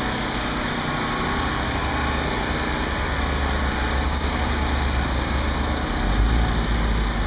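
Generator engine running steadily, with a deeper low rumble rising about six seconds in.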